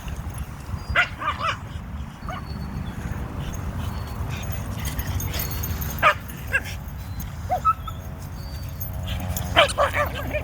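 Dogs playing, giving scattered short barks and yips, a few at a time, over a steady low rumble.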